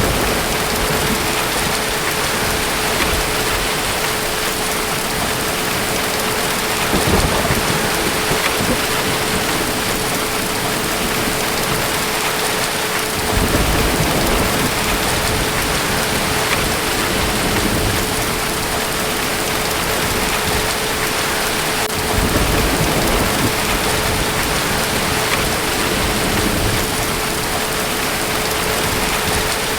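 Heavy, steady rain hissing, with distant thunder rumbling low several times, at about a quarter, halfway and three-quarters of the way through. A faint steady tone runs underneath.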